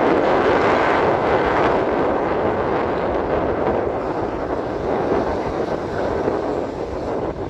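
Strong wind blowing and buffeting the microphone, a loud steady rushing that eases slightly near the end.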